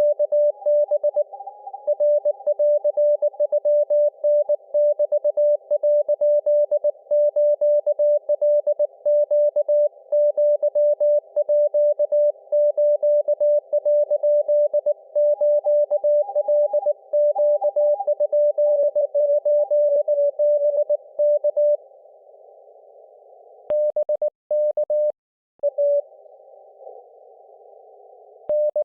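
Morse code (CW) from an Icom IC-705 transceiver: a single steady beep tone keyed in fast dots and dashes. About 22 seconds in the keying stops, leaving faint filtered receiver hiss, followed by a few longer tones near the end.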